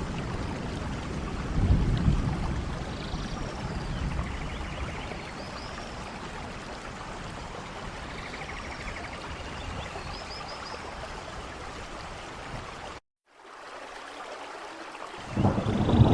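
Steady rain, an even hiss of falling water, with a few faint high chirps and low rumbles about two seconds in and near the end. About thirteen seconds in the sound cuts out for a moment and comes back.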